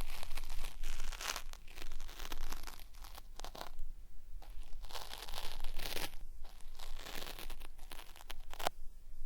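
Cotton swab scraping and rubbing against the ear of a binaural microphone, a crackly, peeling-like ear-cleaning sound in repeated strokes.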